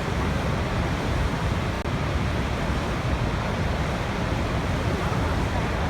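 Waterfall: a steady, dense rush of falling water, with a brief drop in level about two seconds in.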